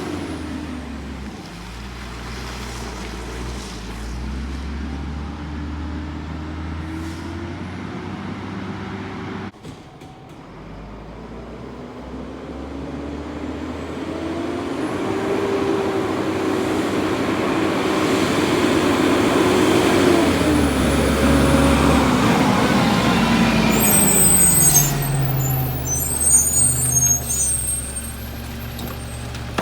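Peterbilt garbage truck's diesel engine running, revving up about halfway through, holding high for several seconds and then dropping back. Sharp high brake squeals and an air hiss follow near the end as it slows.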